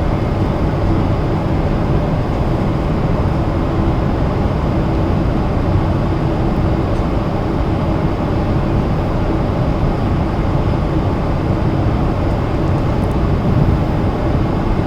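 Steady cabin noise inside a Boeing 777-300ER in cruise flight: an even rush of engine and airflow noise with a faint steady hum, unchanging throughout.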